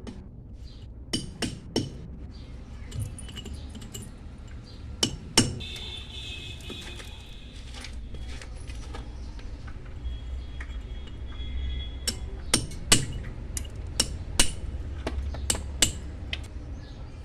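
Hand chiselling of stone: a steel chisel struck with a hammer gives sharp metallic clinks in irregular clusters, over a low steady hum.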